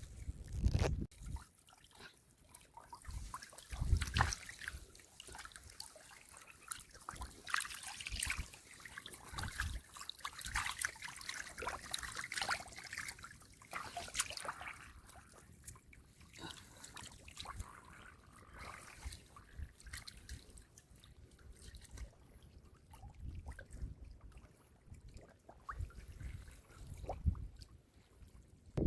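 Shallow muddy water splashing and trickling in irregular bursts as someone wades and works through a drained rice field, with a few dull thumps.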